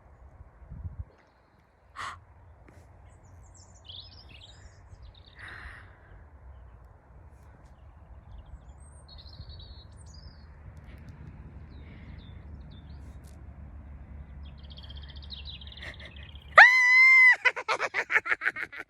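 Faint scattered bird chirps over a low wind rumble, then near the end a sudden loud high-pitched squeal, followed by rapid pulsing cries that sound like squealing laughter.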